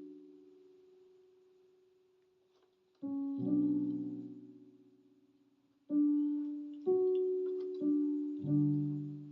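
Slow piano melody and chords played on an electric keyboard, each chord struck and left to fade, with a short pause about two seconds in before the next chord.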